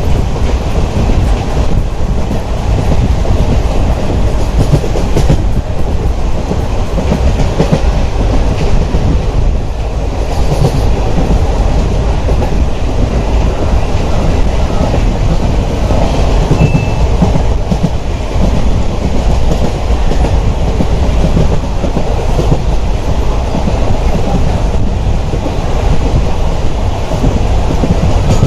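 A train running on the rails, with a loud, steady low rumble of wheels and carriages.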